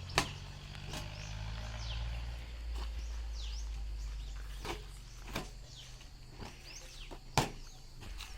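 Small birds chirping in short falling calls over a low steady drone, with a couple of sharp clicks.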